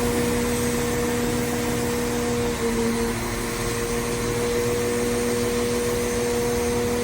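Train standing at a station platform with its engine or equipment running: a steady hum with a constant low drone.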